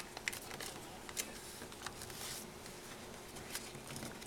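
Origami paper being handled and folded by hand: scattered crisp crinkles and taps of the paper, with a short rustle of paper sliding about halfway through.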